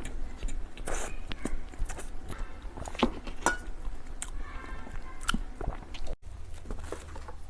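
Close-miked eating of cake and desserts: bites and chewing, with many irregular sharp mouth clicks and smacks.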